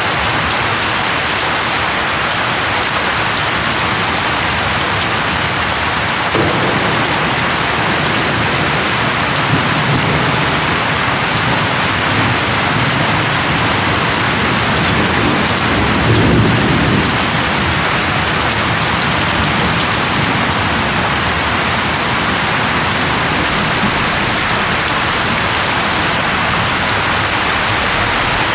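Steady, dense rainfall, with low rolling rumbles of thunder coming in after several seconds and loudest around the middle.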